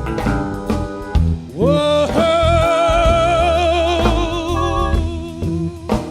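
Live blues-rock band playing, with bass and drums underneath. About two seconds in, a lead line slides up into a long, wavering held note that lasts about three seconds.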